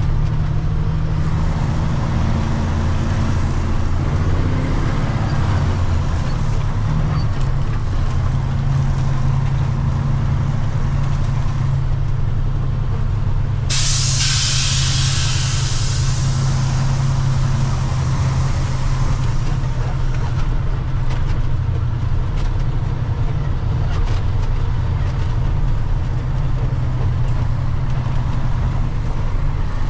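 Water truck's diesel engine running steadily. About fourteen seconds in, a sudden loud hiss of air cuts in and fades away over several seconds.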